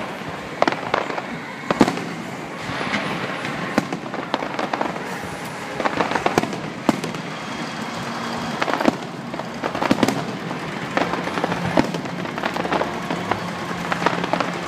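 Aerial fireworks display: shells bursting in a fast, irregular string of sharp bangs, with dense crackling from the falling star effects between them.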